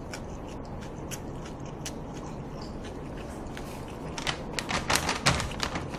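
Close-miked chewing of braised pork trotters (jokbal): soft mouth clicks and smacks over a steady low hiss, growing louder and more frequent about four seconds in.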